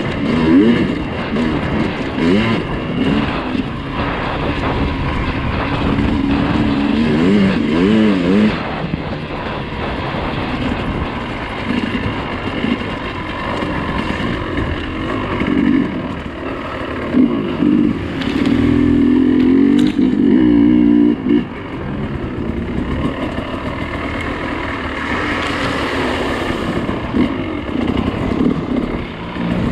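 Dirt bike engine under way off-road, its revs rising and falling constantly as the throttle is worked, with a stretch of steadier high revs about two-thirds of the way through.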